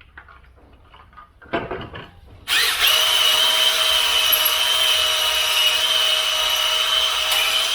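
An electric drill spins a stone cylinder hone in an engine bore. It starts abruptly about two and a half seconds in and runs steadily with a whine and a hiss. Before it starts there is a short clatter of handling.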